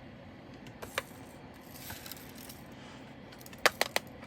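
Plastic clicks and light rattling from a diamond-painting drill storage box being handled and moved: one click about a second in, a soft rustle, then three sharp clicks in quick succession near the end.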